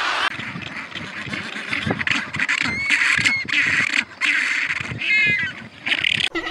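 African penguins calling: a run of short honking calls, then longer wavering brays.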